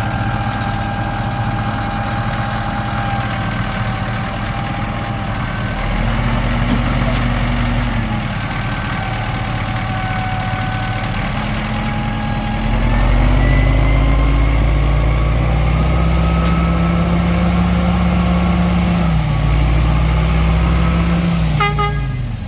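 International box truck's Cummins ISB inline-six diesel running, its engine speed rising and falling a few times, with a steady high whine over the engine note.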